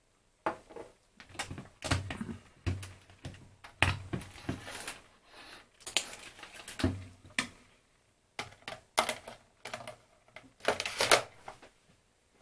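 Irregular plastic clicks, taps and rattles from small parts of a BeoCom 2 cordless phone being handled and fitted together by hand, with a short pause partway through and a loud cluster of clicks near the end.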